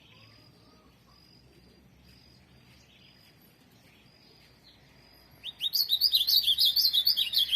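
Ultramarine grosbeak (azulão) singing a loud, quick burst of song about five and a half seconds in, lasting about two seconds. Before it, a faint high peep repeats about once a second.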